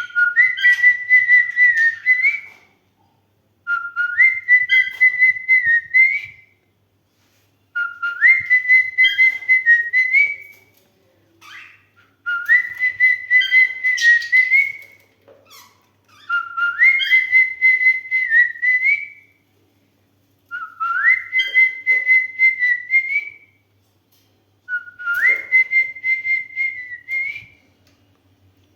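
Cockatiel whistling a short rising phrase, repeated seven times with brief pauses between.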